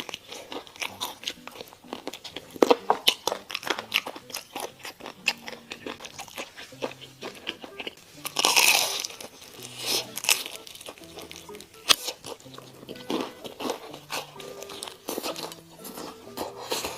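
Close-miked crunching bites and chewing of crispy fried chicken, a rapid run of sharp crackles, with one longer, noisier sound about halfway through.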